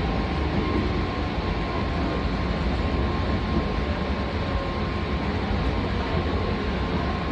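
Steady running noise of a passenger train: a continuous low rumble with a faint steady high tone over it.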